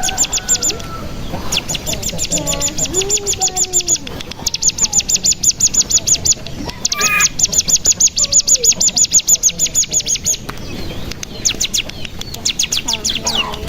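Ciblek gunung singing its fast trill ('bren'): runs of rapid high chips, about eight a second, lasting one to three seconds each and repeated several times, with softer, lower warbling calls underneath.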